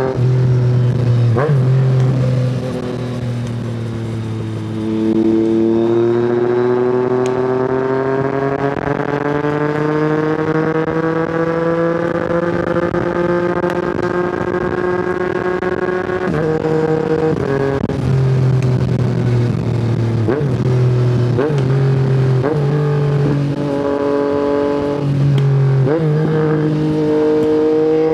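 Yamaha MT-09's inline-three engine through an Akrapovic exhaust, heard from the rider's seat. It eases off and drops in pitch, then pulls with a long steady rise in pitch for about ten seconds. After that comes a run of quick gear changes, with the pitch jumping up and down in sudden steps.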